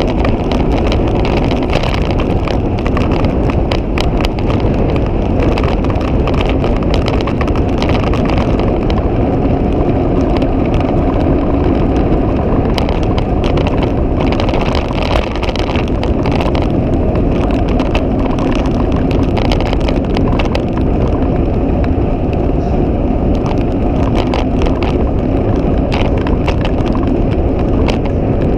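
Wind buffeting the microphone of a camera on a moving bicycle: a loud, steady rumble with scattered small clicks and rattles.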